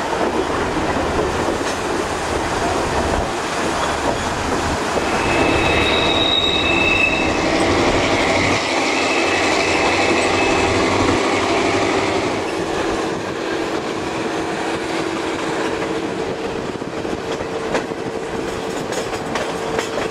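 Chihuahua al Pacífico passenger train running on the rails with a steady rumble and wheel clatter. Its wheels squeal high and steady from about five to eleven seconds in, and a lower steady hum follows.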